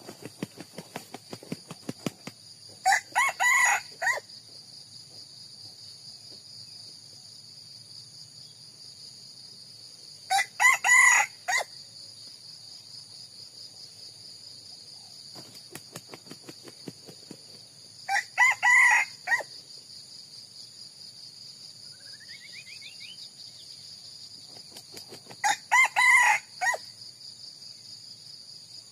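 Red junglefowl cock crowing four times, about every seven to eight seconds, each crow short, about a second long. A steady high insect drone runs underneath.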